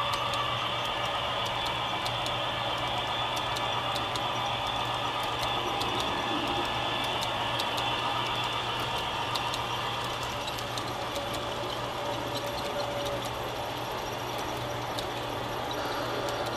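Diesel passenger train pulling away, its E6 locomotives running with a steady low hum and a rushing rattle, and scattered sharp clicks throughout.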